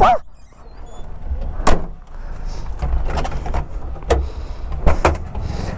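Motorcycle engine idling with a steady low rumble, with several sharp clicks and knocks over it.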